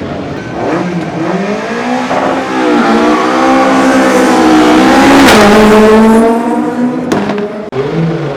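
Hill-climb race car engine at full throttle, changing up through the gears several times as it comes closer. It is loudest as it passes about five seconds in, then fades, with a sharp pop near the end.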